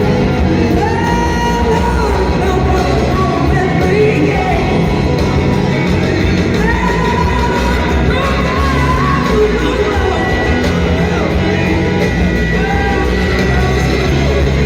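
Live blues-rock band playing at full volume, with a gliding, bending lead melody over bass and drums.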